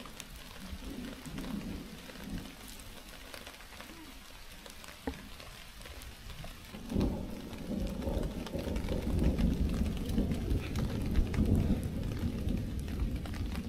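Rain pattering, with scattered sharp drop taps. About seven seconds in, a low rumble of thunder swells up and rolls on to the end.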